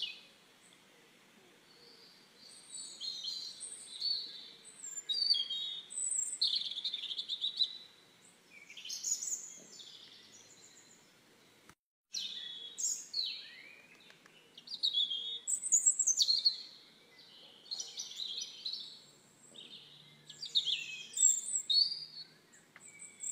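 Birds chirping: clusters of short, high chirps and whistles with quieter gaps between them, and a brief moment of total silence about halfway through.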